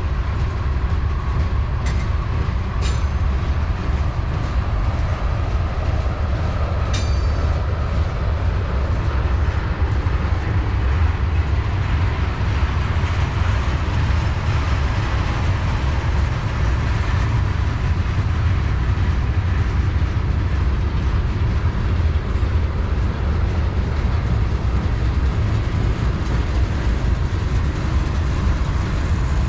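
Freight train cars rolling steadily past with a continuous low rumble, with two sharp metallic clanks a few seconds in.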